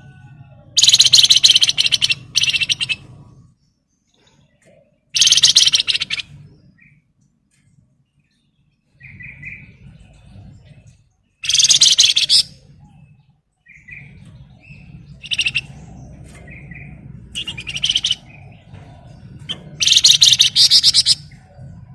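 Caged songbird of the kind Indonesian keepers call flamboyan, singing in loud bursts of fast, densely packed trilling notes (ngebren), each lasting up to about two seconds, about six bouts with short softer chirps between them. A faint low hum runs underneath.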